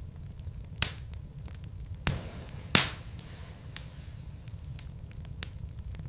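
Wood logs burning in a fireplace, crackling with scattered sharp pops over a low steady rumble; the loudest pop comes a little before the middle.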